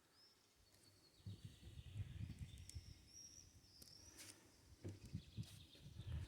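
Faint birdsong: a few short, high, arched chirps, over low irregular rumbling and thumps that start about a second and a half in.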